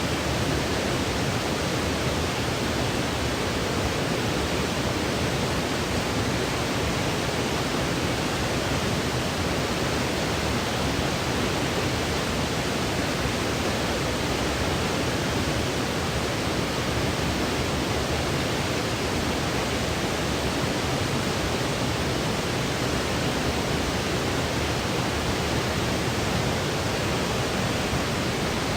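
Steady, unchanging electronically generated white noise for sleep: an even hiss weighted toward the lower pitches, like pink noise, with no other sounds.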